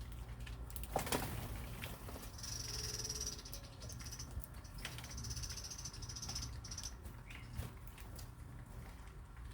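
Small birds moving about, with scattered wing flutters and light knocks, and a high, buzzy trill from one bird lasting from about two seconds in to about seven seconds in.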